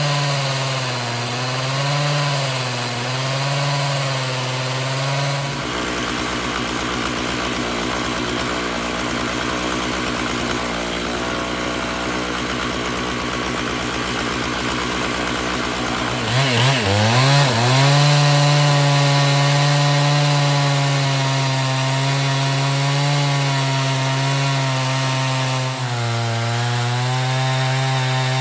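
Gas chainsaw on an Alaskan chainsaw mill, cutting along a pine log. It runs at high speed with a wavering pitch, drops to a lower, rougher speed about five seconds in, then revs back up about two-thirds of the way through and keeps running at high speed.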